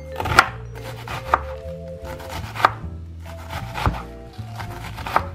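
Knife chopping a red onion on a cutting board: about five sharp knocks of the blade hitting the board, roughly one a second.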